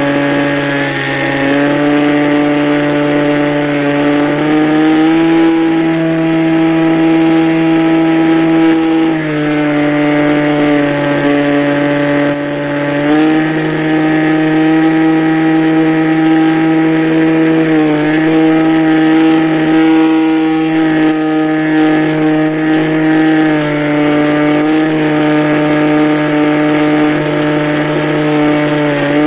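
Radio-controlled model airplane motor running steadily, its pitch stepping up and down every few seconds as the throttle is changed.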